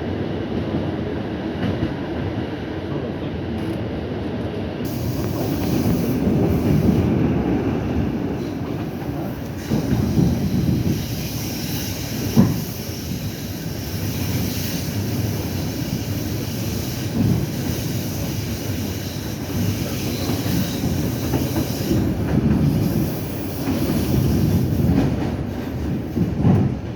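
Suburban electric train running along the track, heard from inside the carriage: a steady rumble of wheels on rails, with a sharp knock about twelve seconds in.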